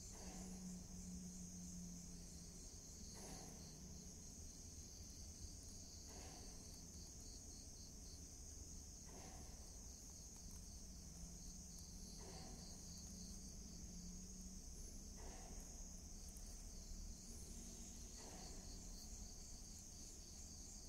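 Night chorus of crickets: a faint, steady, high-pitched trill. A soft, short sound recurs about every three seconds.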